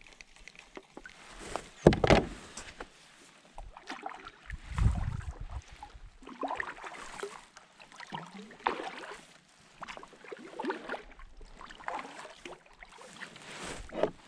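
Kayak paddle strokes swishing and splashing in the water, about one every one and a half to two seconds, with a loud thump about two seconds in.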